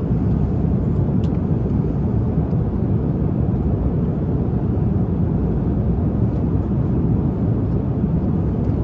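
Steady low rumble of an airliner's cabin in flight: engine and airflow drone, even and unchanging.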